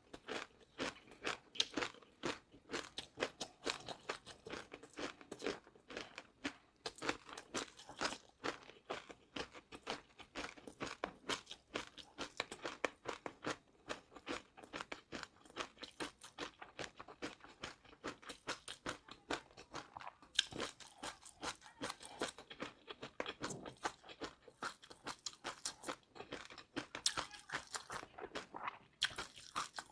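Close-miked chewing of crunchy food, a fast, unbroken run of crisp crunches.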